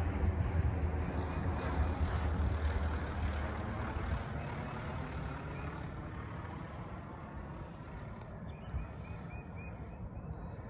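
A low-flying airplane passes over, its engine drone loudest in the first few seconds and then slowly fading as it moves away.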